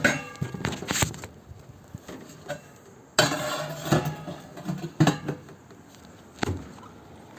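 Metal flue pipe sections clanking and scraping against each other and the chimney as they are worked loose and pulled out by hand: a ringing clank at the start, a rough scrape about three seconds in, and a few more knocks.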